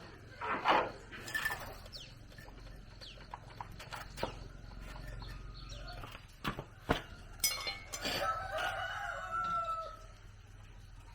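A rooster crowing once, a long drawn-out call near the end, with a few sharp knocks before it.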